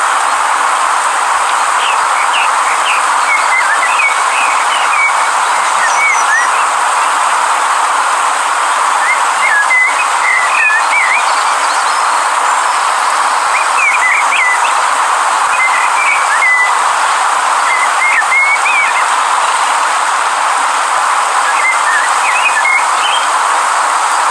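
A river running with a steady rush, with a small bird giving short bursts of quick, high chirps every few seconds over it.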